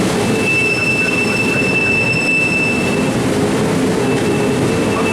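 Train running, its wheels squealing against the rails in one high steady squeal that fades about three seconds in and comes back near the end, over a steady rumble of the moving cars.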